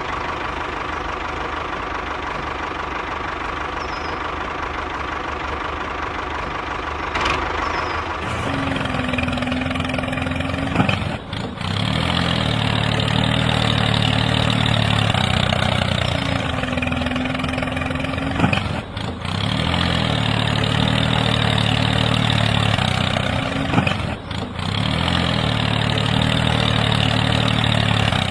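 An engine idling steadily with a humming tone that comes and goes every few seconds and brief dips in level.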